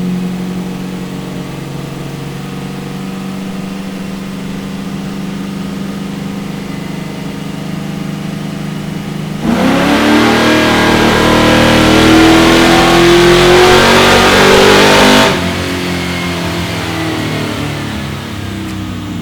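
A 427 cubic-inch LSX V8 running on a chassis dyno: a steady low-speed note, then about nine seconds in a wide-open-throttle pull whose pitch climbs steadily for about six seconds before the throttle closes suddenly and the engine drops back and coasts down.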